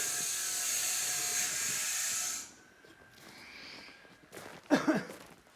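A steady hiss for about two and a half seconds that stops abruptly, followed by quiet and a brief, louder sound near the end.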